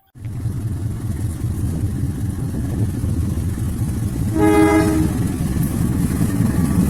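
CC206 diesel-electric locomotive running loud and low, with a short blast of its multi-tone horn about four and a half seconds in.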